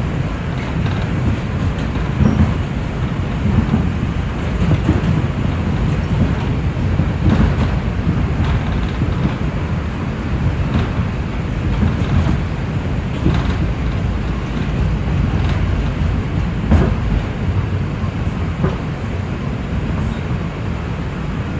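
Inside an R142 subway car running on the track: a loud, steady low rumble of wheels and motors on the rails, with short clicks and knocks from the wheels passing rail joints every second or so and a sharper knock near the end.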